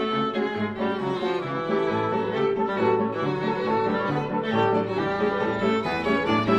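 Bowed string music, violin over cello, playing a lively melody with notes changing in quick succession.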